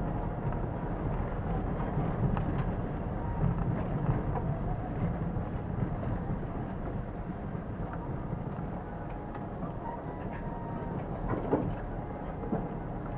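Car driving along a forest road, heard from inside the cabin by a dashcam: a steady low rumble of tyres and engine, with a few sharp knocks and rattles from bumps, the loudest about two-thirds of the way in.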